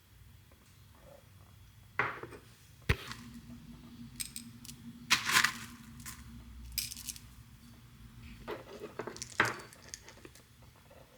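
Dishes and utensils being handled: a series of separate clinks, knocks and clatters a second or two apart, with a faint steady hum through the middle.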